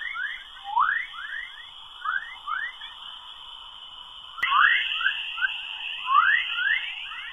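A space recording converted to audio: short rising chirps come in quick clusters over a steady high whistling tone. About four seconds in there is an abrupt cut, and the tone jumps slightly higher.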